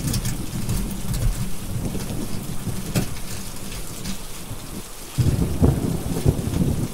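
Steady heavy rain with rolling thunder, and a crackling wood fire giving scattered sharp pops. The thunder rumble dies down about four seconds in, then a new loud rumble breaks in about five seconds in.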